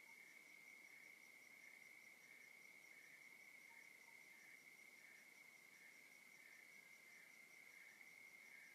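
Faint night chorus of crickets: one steady, unbroken high trill, with another insect chirping just below it about every half second.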